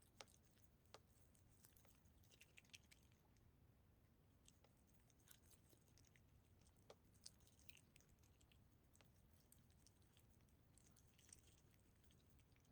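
A cat chewing food: faint, irregular wet clicks and crackles of its teeth and mouth, over a low steady hum.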